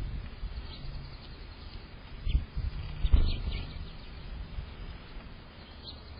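A few faint, short bird chirps over steady outdoor background noise, with two low dull thumps at the microphone about two and three seconds in, the loudest sounds here.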